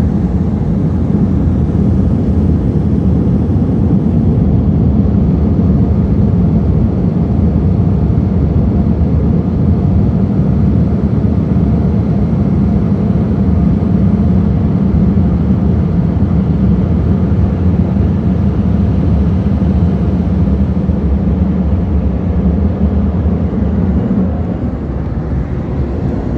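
Car wash air dryer blowers running steadily: a loud, even rush of air with a low hum underneath, easing slightly near the end.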